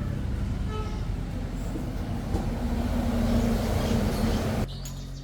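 A steady low mechanical rumble, like a vehicle or motor running. It cuts off abruptly near the end.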